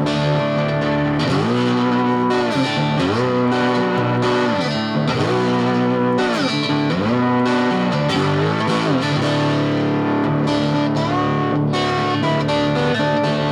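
Lap steel guitar played with a slide in an instrumental passage: held chords with notes gliding up and down in repeated swoops, then settling back onto sustained chords near the end.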